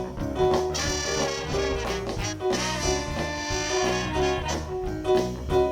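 Live soul band playing an instrumental passage, with a horn section of saxophone, trombone and trumpet over bass and drums.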